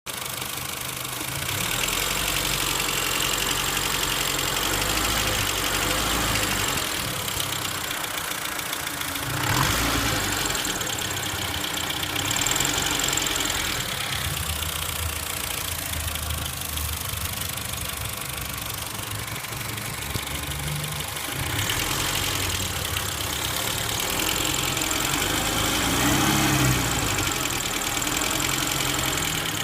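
Vehicle engine running at idle, with a strange noise that the owner puts down to a fork ("fourchette"). It swells briefly twice, about ten seconds in and again near the end.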